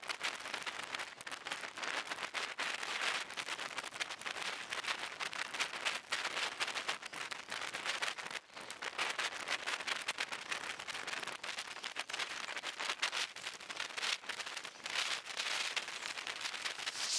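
Heavy rain pattering, a dense steady crackle of drops striking a surface that swells and eases slightly.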